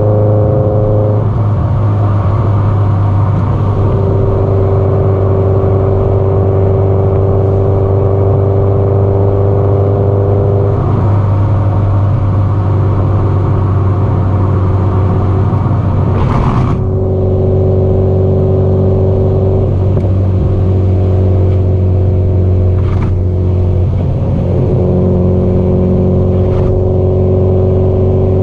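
Subaru Impreza GDB-E's turbocharged flat-four through an aftermarket muffler, running steadily at road speed. The exhaust drone holds a steady pitch that steps down and up a few times as the throttle and gears change. Three short sharp clicks sound in the second half.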